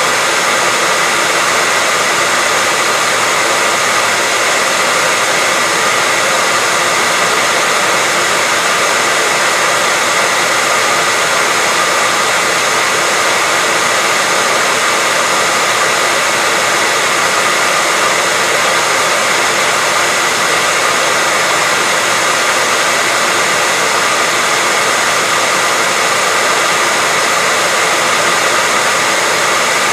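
Hair dryer running steadily: a loud, even blowing hiss with a faint steady whine, unchanging throughout.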